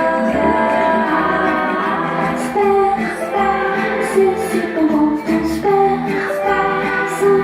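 A song: a woman singing sustained, changing notes over instrumental accompaniment with a steady bass.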